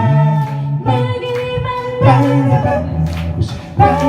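A cappella vocal group singing in close harmony, several voices moving together over a low sung bass part, between lines of the lyric.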